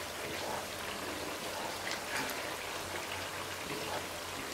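Semolina and sugar frying in bubbling melted butter in a pan: a steady sizzle and crackle, stirred with a wooden spatula.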